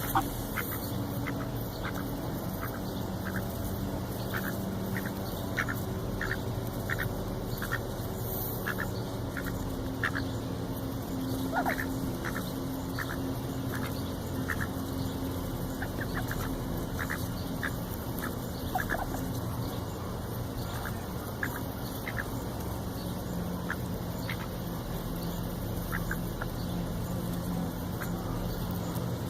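Ducks calling: many short, high calls scattered throughout, about one or two a second, over a steady low hum.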